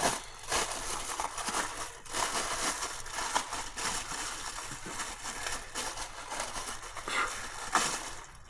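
Rustling and crinkling of car intake parts being handled, with a few light knocks.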